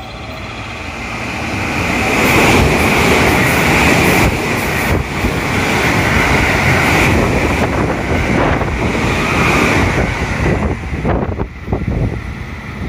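A train passing through the station at speed: a rushing rumble of wheels on rail that builds over the first two seconds, holds loud, and fades after about ten seconds, with some clatter near the end.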